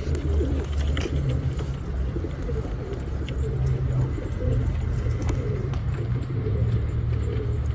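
Domestic pigeons cooing, a low, wavering sound that goes on throughout.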